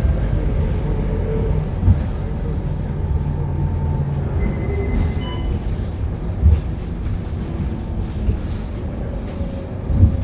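Scania K230UB city bus's engine and drivetrain heard from inside the moving bus, a steady low drone under way. Three sudden thumps, about two, six and a half and ten seconds in, come through the body.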